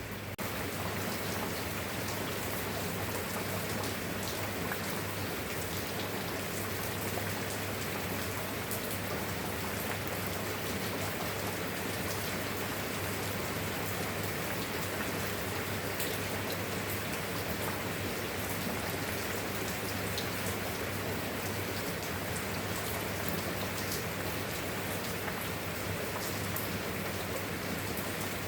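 Steady rain, an even hiss with scattered individual drops ticking through it.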